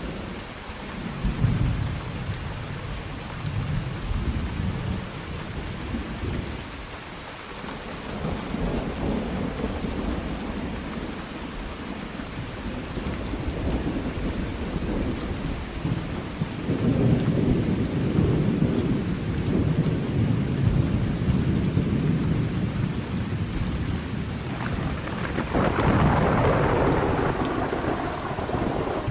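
Steady rain with thunder rumbling again and again; a long roll builds through the middle, and a louder, sharper peal breaks about three-quarters of the way through.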